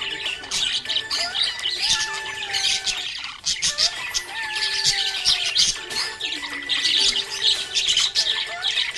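A flock of small pet parrots chirping and squawking continuously in rapid, high-pitched bursts. A slow melody of held, gently falling notes plays underneath.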